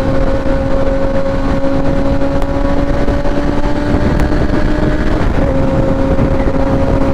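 Engine of a 2016 Kawasaki ZX-10R, an inline-four sport bike with a Graves race exhaust, holding a steady pitch while cruising. The tone creeps up slightly, then steps down briefly about five seconds in before settling again.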